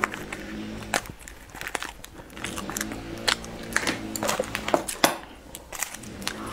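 Close-miked eating: a cream-filled pastry chewed with irregular sharp crackles and crinkles. Background music is heard until about a second in.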